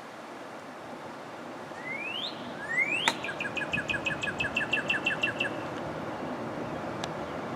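Northern cardinal singing: two rising slurred whistles, then a quick even series of about a dozen short notes, roughly five a second. A sharp click comes just as the series begins, over a steady low background noise.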